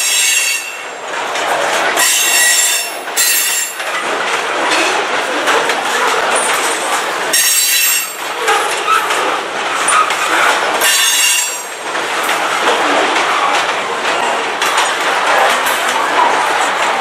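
Covered hopper cars of a freight train rolling past, with high-pitched wheel squeal coming and going in about five short bursts over the steady rolling noise.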